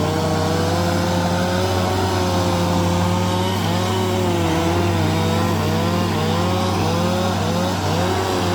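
Bulldozer's diesel engine running steadily under load, with a higher whine that wavers up and down in pitch over the low, even engine drone.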